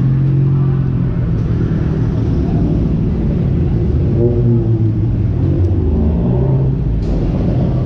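Car engines running close by, a steady low rumble, with faint voices in the background about four seconds in.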